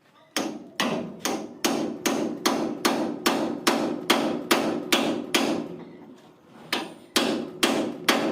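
Hammer blows struck in a steady rhythm, about two and a half a second, each with a short ring. There is a brief pause about three-quarters of the way through, then the blows resume.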